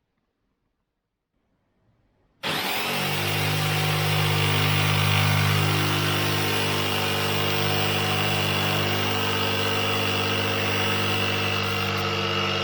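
Electric power saw cutting wood: silent at first, it starts suddenly a little over two seconds in and then runs steadily and loudly.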